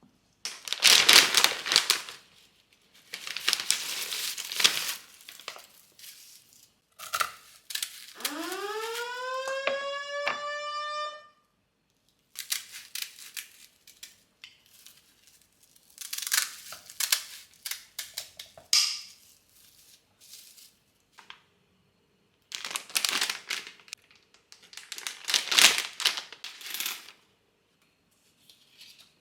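Kitchen handling sounds: several bursts of rustling and crinkling. About eight seconds in, liquid is poured into a container, its tone rising steadily as it fills.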